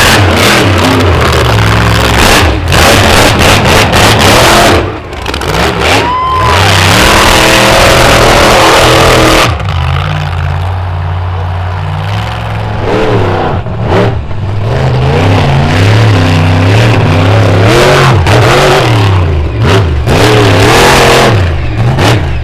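Monster truck engine revving hard, its pitch swinging up and down over and over, very loud, with several sharp thumps and bangs along the way.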